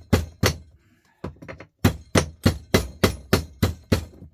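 Rapid hammer blows on a small electric motor, knocking it apart to get the copper windings out. The blows come about three a second, pause briefly about a second in with a few lighter taps, then carry on steadily.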